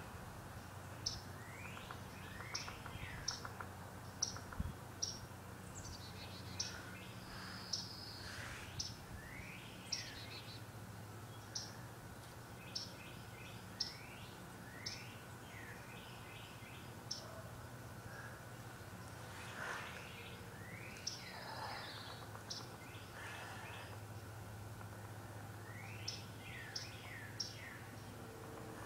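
Small birds calling: repeated short, sharp high chips with a few sweeping whistled calls among them, over a low steady hum.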